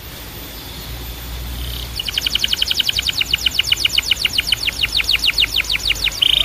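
Canary singing: after a soft start, a fast run of repeated falling whistled notes, about nine a second, switching near the end to a rapid trill held on one pitch.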